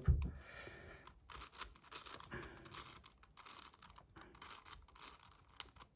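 Magnetic 7x7 Rubik's cube being turned layer by layer: an irregular run of quick, light clicks and rattles.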